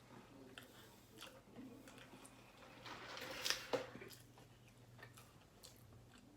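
Faint eating sounds: chewing with small clicks and rustles of handling food, and a louder rustle with a couple of sharp clicks about three and a half seconds in.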